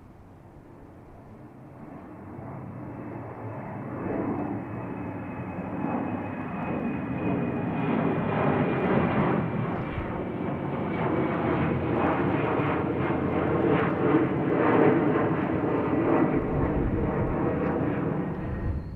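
A jet airliner taking off some distance away: the engine roar swells over the first several seconds and then stays loud, with a faint high whine slowly falling in pitch.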